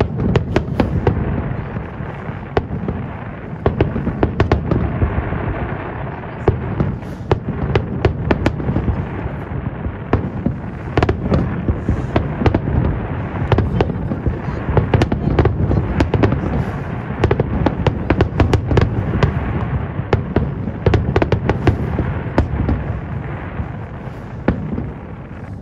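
Aerial fireworks going off in a dense barrage: many sharp bangs and crackles, several a second, over a continuous low rumble of bursts. It starts suddenly.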